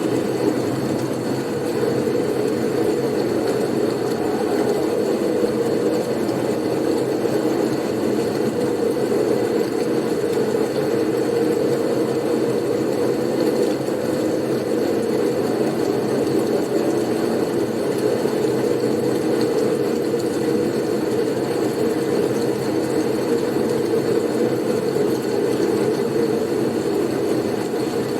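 Steady blizzard wind noise: a dense, even rushing sound weighted low, with a faint thin high tone running through it.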